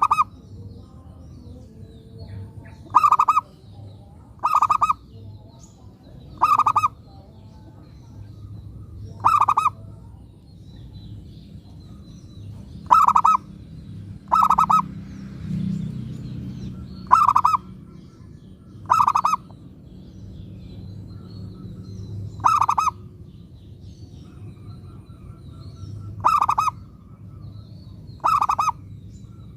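Zebra dove (perkutut) cooing: about eleven short calls, each about half a second, repeated every two to four seconds.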